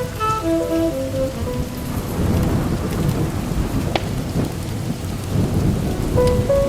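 Steady rain with a low rumble of thunder. A jazz melody fades out in the first second and a half and comes back near the end, and a single sharp crack from the fireplace comes about four seconds in.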